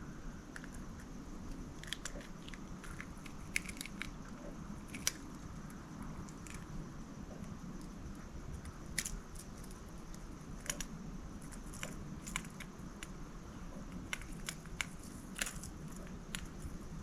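Scattered small clicks and crackles of a lure's hooks being worked loose from a just-caught bass that is hooked in several places, over a low steady rumble.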